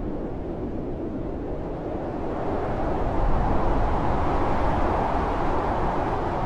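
Blizzard wind blowing hard and steadily, swelling into a stronger gust about three seconds in.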